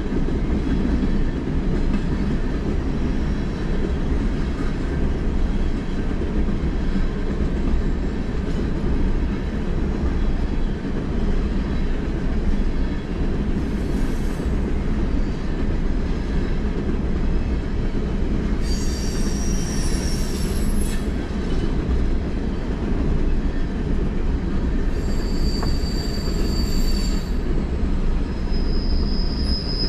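Norfolk Southern freight train rolling past, a steady heavy rumble of cars on the rails. High-pitched wheel squeal sets in a few times in the second half.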